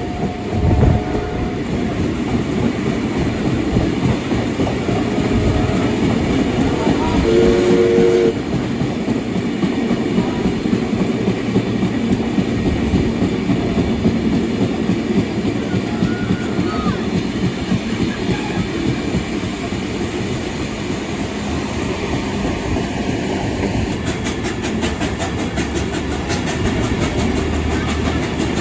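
Train hauled by steam locomotive 3801 heard from on board while running: a steady rumble with wheel and rail noise, and a short whistle note about seven seconds in.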